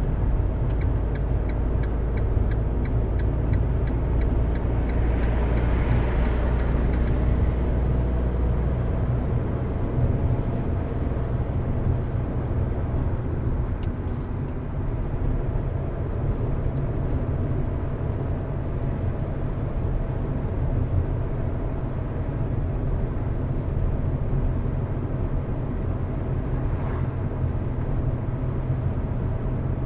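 A car driving steadily along a road: engine hum and tyre and road rumble. A light, regular ticking of about three a second sounds over it for the first seven seconds or so, and a short patter of high clicks comes about fourteen seconds in.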